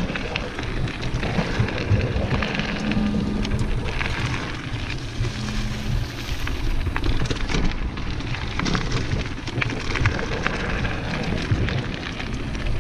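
Mountain bike rolling fast down a dirt singletrack: tyres crackling over the dirt, with frame and drivetrain rattling in many small clicks and knocks. A low steady hum comes and goes in the first half.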